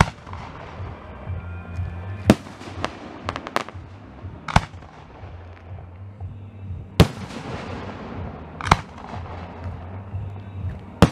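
Fireworks shells bursting overhead: a string of sharp bangs, a second or more apart, the loudest about two seconds in and another about seven seconds in, with a quick cluster of smaller cracks around three to four seconds.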